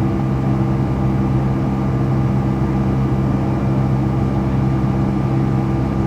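Cabin noise of a Boeing 757-200 in flight: the steady drone of the jet engines and airflow, with a constant low hum.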